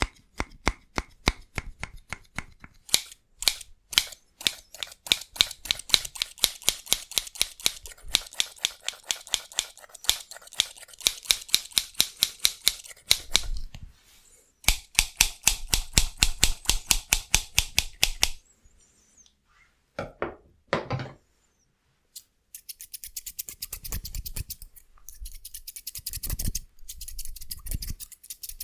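Scissors snipping rapidly in long, quick runs of many sharp snips. A pause of a few seconds comes past the middle, broken only by a couple of duller sounds, before lighter, faster snipping resumes.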